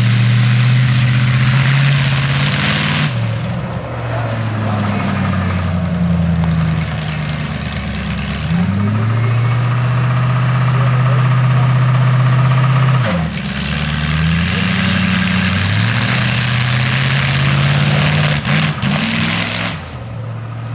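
Demolition derby car's engine revved up and held high for a few seconds at a time, three times, dropping back to a lower speed in between, with a loud exhaust rush while held high.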